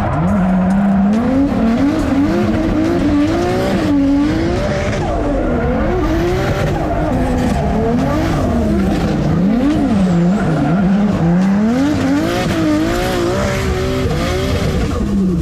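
Drift car engine revving up and down over and over as the throttle is worked through a slide, with tyre squeal over it. The revs drop away near the end.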